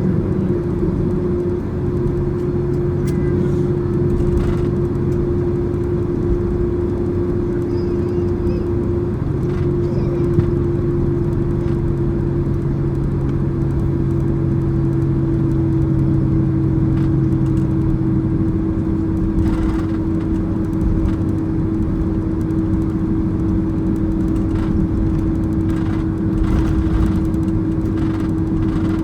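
Cabin noise inside a Boeing 767-300ER taxiing after landing: the engines running at idle with a steady hum and a lower drone that drops out about two-thirds of the way through, over the rush of cabin air.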